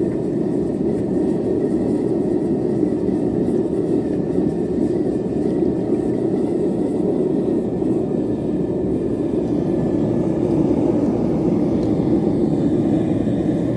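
Propane forge burner running with a steady, loud roar, unbroken and even throughout.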